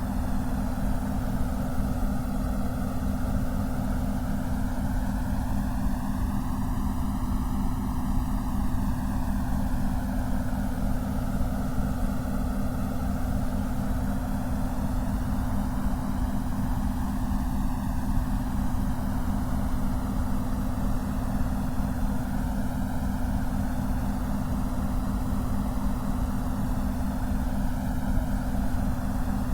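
Synthesized noise played for concentration: a steady hiss weighted toward the low end, with a low hum that flutters rapidly and slow, wavering whooshing sweeps through the higher part of the noise.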